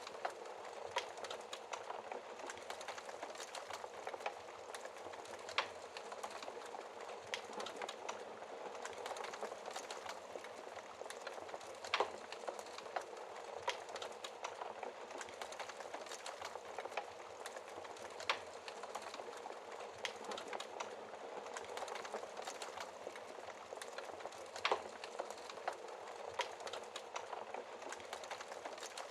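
Wood fire crackling in a fireplace: a steady hiss thick with small snaps and pops, and a few louder sharp pops about every six seconds.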